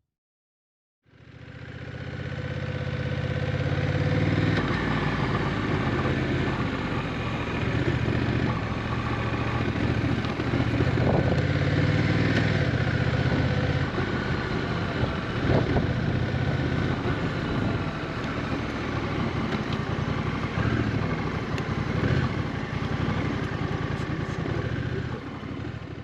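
Honda Rebel 1100 DCT motorcycle's parallel-twin engine running steadily, fading in about a second in, with a steady rushing noise over it.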